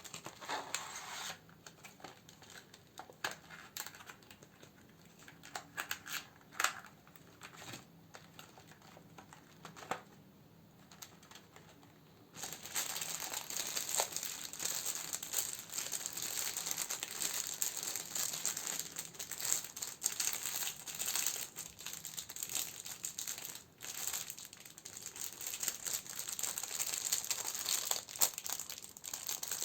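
Plastic and paper candle wrapping being handled: scattered crinkles and taps at first, then, a little before halfway through, a sudden change to steady, louder crinkling and rustling.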